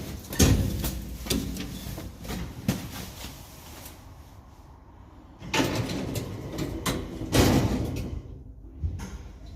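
A sliding door rolling and clunking: a heavy thump about half a second in, then two longer rumbling slides with knocks, a few seconds apart.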